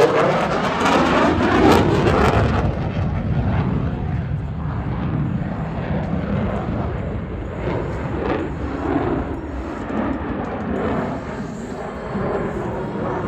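F-16 Fighting Falcon jet engine roaring past on a pass, with a sweeping whoosh in the first two or three seconds. The roar then dulls and fades as the jet moves away.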